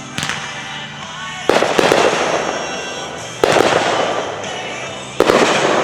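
Fireworks bursting: three loud booms about two seconds apart, each followed by a fading crackle, with music playing underneath.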